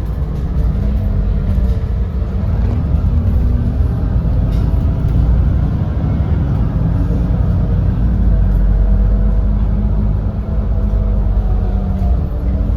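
Edison Motors Smart 110G natural-gas city bus with its Doosan GX12P engine running under way, heard from inside the bus: a steady low drone whose pitch drifts up and down a little with engine speed.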